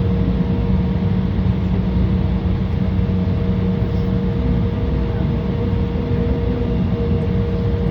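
Embraer 175's twin turbofan engines running steadily, heard inside the cabin as a constant rushing noise with a steady low hum in it.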